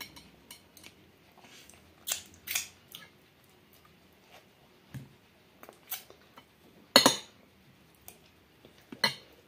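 Close-up eating sounds: a person biting and chewing bread and a spoonful of buckwheat, with scattered short, sharp wet mouth clicks and lip smacks. The loudest comes about seven seconds in.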